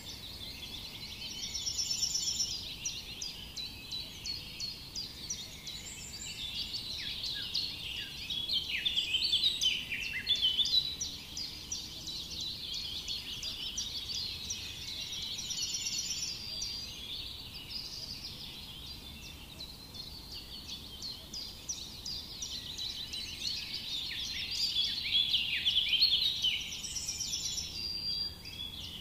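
A dense chorus of small songbirds chirping and twittering, quick high notes that swell and fade over several seconds at a time.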